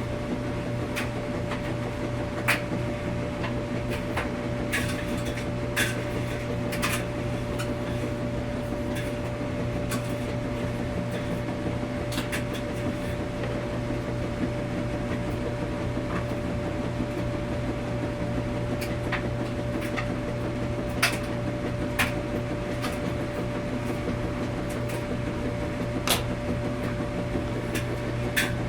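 Laundromat washing machines running with a steady hum and a constant drone tone, with sharp clicks and knocks scattered irregularly, clustered near the start and again near the end.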